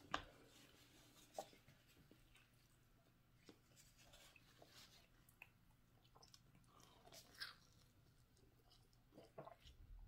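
Faint chewing while eating, with scattered soft clicks and a few sharper taps, the loudest right at the start.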